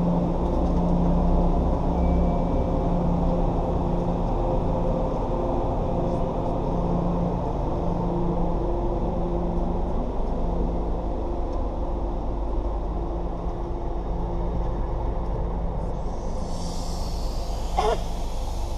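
MBTA commuter train departing: the diesel locomotive running under power with a steady rumble and droning engine tones as bilevel coaches roll past. Near the end a person coughs from the locomotive's exhaust smoke.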